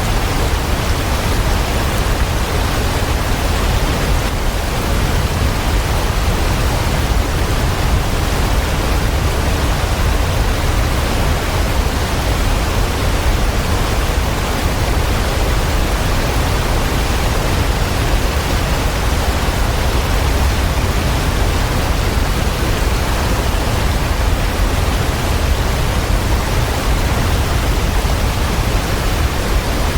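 Waterfall: a steady, unchanging rush of falling water with a deep rumble underneath.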